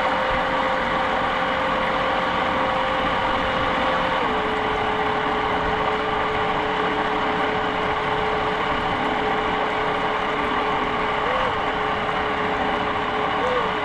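A jet boat's motor running steadily with a whine. The pitch steps down about four seconds in and rises briefly twice near the end, as the throttle changes.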